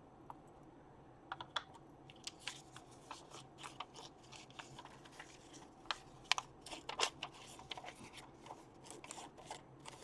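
Sheets and scraps of paper being handled and shuffled on a table: faint, scattered small rustles and taps.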